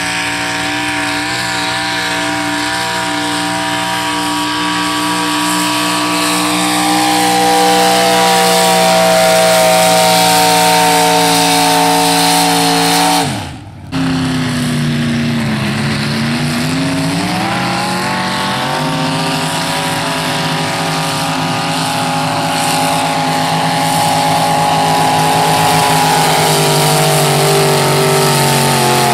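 Pickup truck engine running hard at high revs, pulling a weight-transfer sled, its pitch rising slightly as it goes. About halfway through, the sound cuts out for a moment. Then the engine pitch dips and climbs back to a steady high rev.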